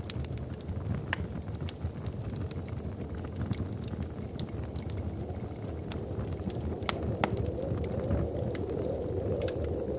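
Wood fire in a fireplace crackling, with scattered sharp pops and snaps over a steady low rumble.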